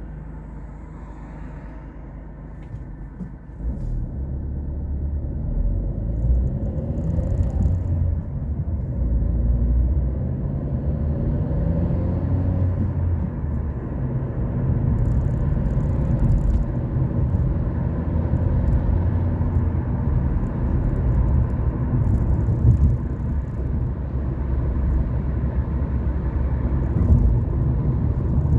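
A car driving: engine and tyre rumble that grows louder as the car speeds up about four seconds in, then runs on steadily.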